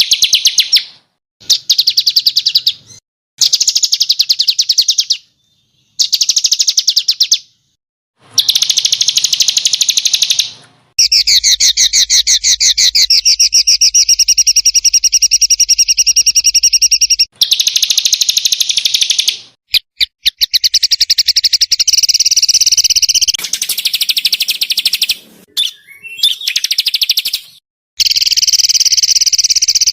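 Small songbirds singing very rapid, harsh trills, the 'tembakan kasar' (rough shots) prized in Indonesian song-bird training. The notes come in bursts of one to six seconds, cut apart by abrupt silent gaps as in an edited recording.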